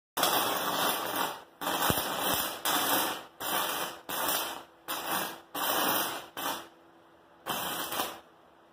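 Stick-welding arc from a 36-volt battery arc welder, crackling and hissing in a series of short runs of about half a second to a second each, as the arc is struck, held briefly and broken again about nine times.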